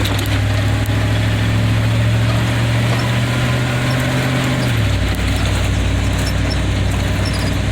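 Vehicle engine running while driving slowly on a rough dirt road, with the engine note dropping a little about five seconds in.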